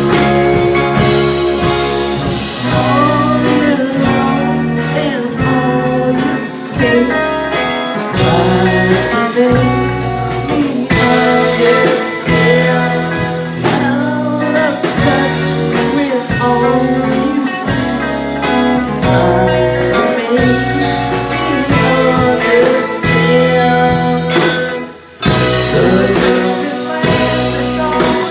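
Psychedelic rock band playing live: electric guitars over bass and drums, with one short break in the sound about 25 seconds in.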